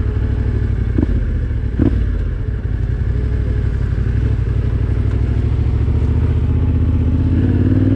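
Yamaha Ténéré 700 parallel-twin engine running at low trail speed, with two sharp knocks about one and two seconds in, and the engine note rising near the end as the bike speeds up.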